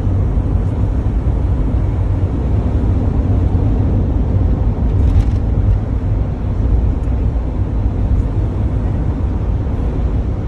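Tour coach running along the road, heard from inside the passenger cabin: a steady low rumble of engine and tyre noise.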